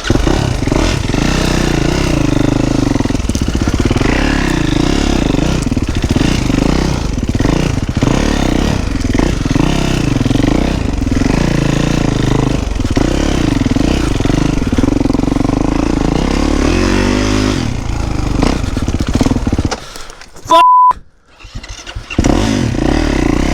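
450 four-stroke motocross bike engine running and revving as it is ridden on a trail, rising and falling with the throttle. About 20 seconds in the engine stalls and cuts out, a short electronic beep sounds, and the engine is restarted a couple of seconds later.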